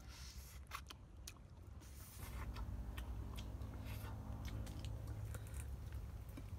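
A person biting and chewing pieces of whole fried chicken, with scattered short, sharp clicks, over a steady low rumble.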